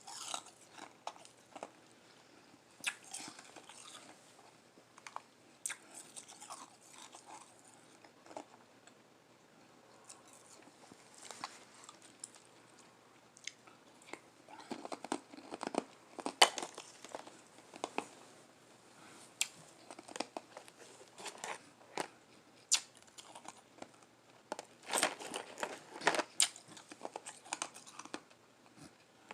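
Close-up chewing and biting of soft, crunchy flavored ice, in irregular crunches with denser bursts of chewing about halfway through and again near the end.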